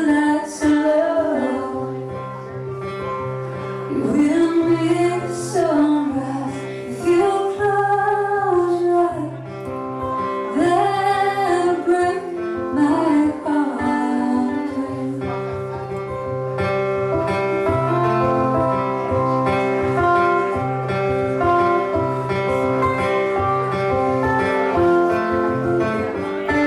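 A woman sings a country-folk song over guitar accompaniment. About halfway through, the voice drops out and the guitar plays on alone in an instrumental passage.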